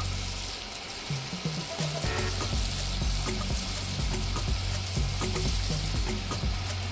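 Tomato stew base frying in oil in a pot on the stove: a steady sizzle with scattered small crackles, while a spoon stirs it. The tomato is being fried down at length so the stew won't turn sour.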